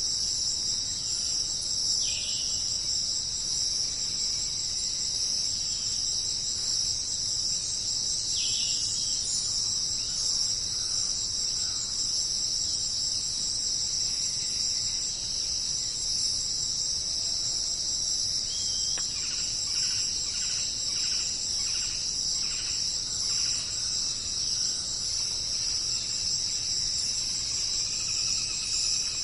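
Dense, steady high-pitched chorus of rainforest insects, crickets or cicadas, trilling without a break. Fainter bird calls sound through it: a couple of short calls near the start and a rapid run of about ten repeated notes a little past the middle.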